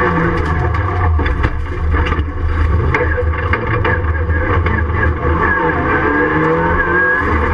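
Ford Fiesta Mk7 rallycross car's engine heard from inside the stripped, caged cabin, its note rising and falling as the driver accelerates and shifts under racing.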